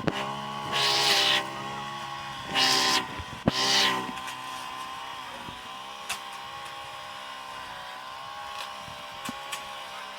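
A motor running steadily, with three loud hissing bursts in the first four seconds and a few light clicks later.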